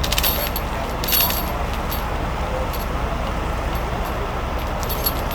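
Heavy truck engine running steadily, with sharp metallic clinks of rigging hardware a few times, about a second in and near the end.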